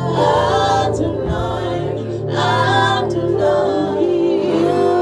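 Worship singers singing a slow praise song, drawing the words out in long held, gliding notes over steady musical accompaniment.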